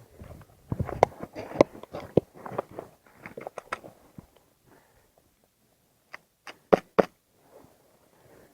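An HPA-powered Hi-Capa airsoft pistol fires four sharp shots in quick succession, about six seconds in. Earlier there is a run of knocking and scuffing, like movement on a hard floor.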